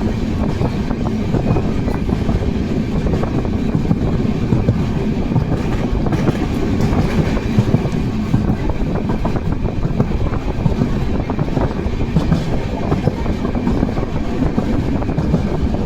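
Amrit Bharat Express passenger train running along the track: a steady rumble of wheels and carriages.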